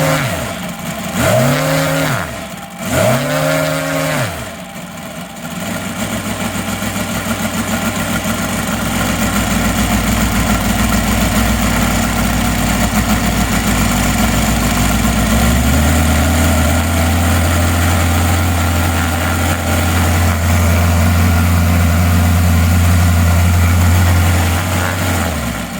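UMS 7-90 seven-cylinder four-stroke radial gas engine running on the stand. It is blipped up and back down three times in quick succession, then brought up to a steady higher speed. About 15 seconds in it steps up to a still higher steady speed, and it is throttled back near the end.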